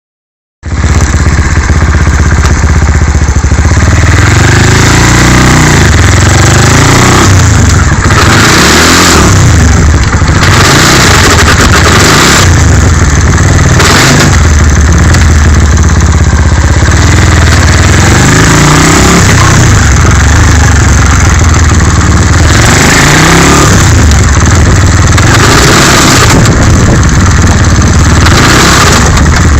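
Skyteam 125cc four-stroke single-cylinder motorcycle engine running and revving up and down several times, loud and distorted, with bursts of clatter. The owner reports a loud noise from it only when shifting into second gear.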